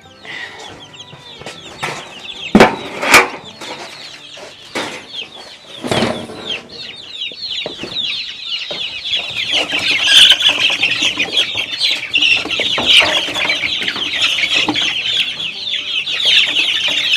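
A flock of three-week-old Cornish cross and Buff Orpington chicks peeping in alarm while they are being handled. The peeping builds into a dense, loud chorus from about halfway through. A few sharp knocks and flutters come in the first few seconds.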